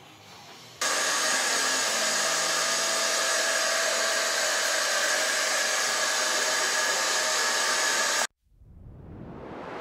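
A loud, steady whirring of an electric motor with rushing air, starting suddenly about a second in and cutting off abruptly near the end.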